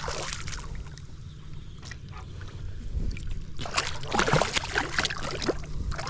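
Water splashing and sloshing against the side of a kayak, growing busier about halfway through, as a hooked trout thrashes at the surface.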